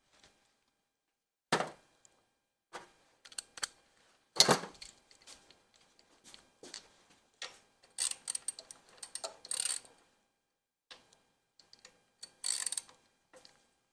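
Hand ratchet wrench clicking in short runs, with scattered metal-on-metal knocks and clanks of tools, two of them louder early on at about a second and a half and four and a half seconds in.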